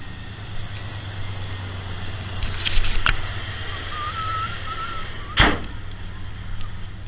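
Ford 5.8-litre 351 V8 idling steadily soon after a cold first start of the day, through a muffler the owner believes is aftermarket. A few sharp clicks come about two and a half to three seconds in, and a single sharp thump a little past five seconds.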